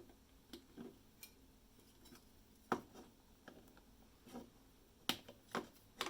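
Irregular light clicks and taps of small hard objects being handled, about ten in all, with the sharpest about a third of the way in and three more close together near the end.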